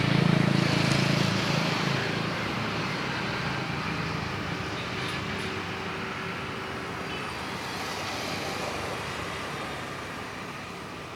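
A road vehicle passing close by, loudest in the first second or two and fading into steady traffic noise.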